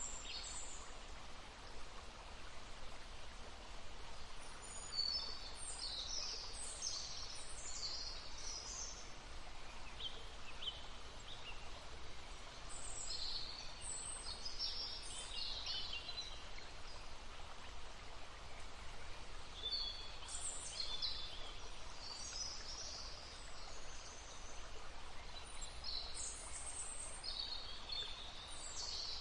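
Songbirds singing in short bouts of quick, high chirping phrases every several seconds over the steady rush of a babbling stream.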